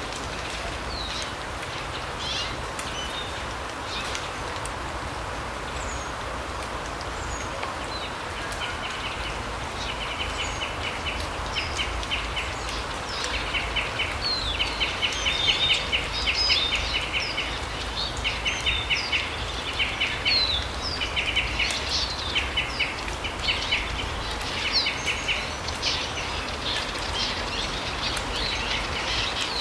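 Small forest birds calling over a steady background hiss: short high chirps, then from about a third of the way in, rapid trills repeated again and again, each less than a second long.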